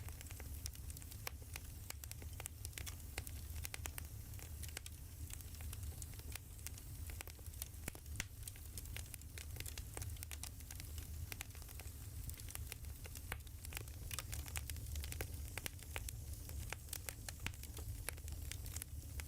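Burning firewood crackling: a dense, irregular run of small pops and snaps over a low, steady rumble.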